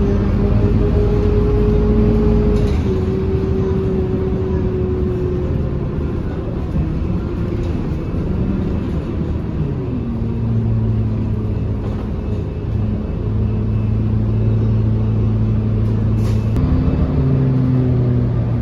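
Scania K230UB Euro 5 city bus running, its engine and driveline holding steady humming tones that drop and shift pitch a few times, midway and again near the end, as the bus changes speed.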